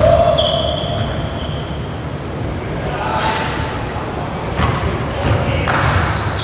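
Live basketball game in a gym: the ball bouncing on the court and many short, high-pitched sneaker squeaks as players cut and stop, with players' voices calling out across the hall.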